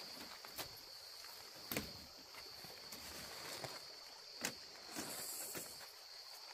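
Steady high-pitched drone of insects, with a few short knocks and rustles of camp gear being handled, the sharpest just before two seconds and about four and a half seconds in.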